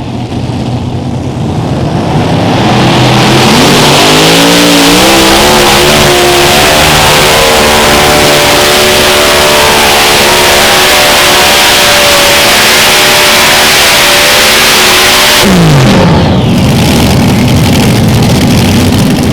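Unlimited modified pulling tractor's engines winding up to full throttle over a few seconds and running at high revs through the pull. About fifteen seconds in, the revs drop sharply as the throttle comes off.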